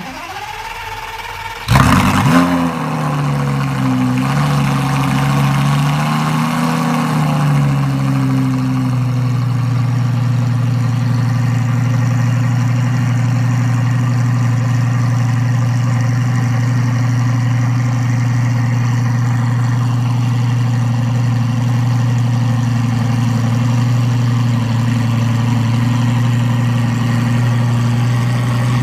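Lamborghini Gallardo V10 with a QuickSilver aftermarket exhaust cold-starting. The starter cranks for about a second and a half, then the engine fires loudly. It hunts up and down at a high cold idle for several seconds and settles into a steady idle about nine seconds in.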